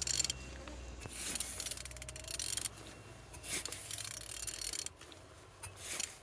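Several bursts of metallic rubbing and scraping as a Renault F9Q diesel engine is turned over by hand; the engine turns freely.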